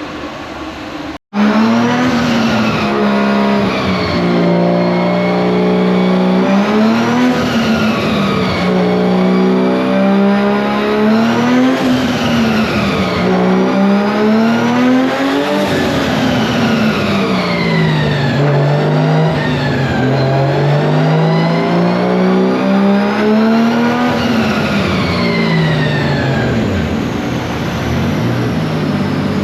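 Drift car's engine run hard, its pitch climbing and dropping again and again every couple of seconds as the throttle is worked on and off.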